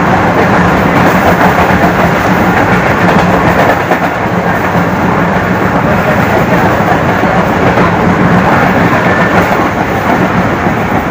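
Passenger express train passing at speed, a loud steady rush of wheels and carriages on the rails with a constant low hum underneath.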